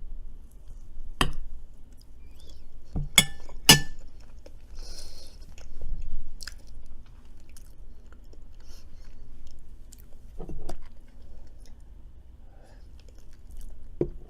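Close-miked chewing and crunching of food, with a few sharp clicks in the first four seconds.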